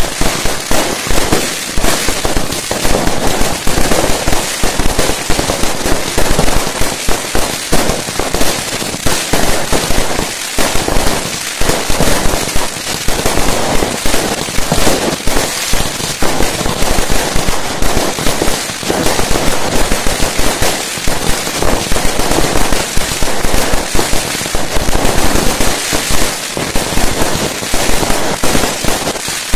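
Fireworks going off in a dense, continuous barrage: rapid loud bangs and crackling with no real pause.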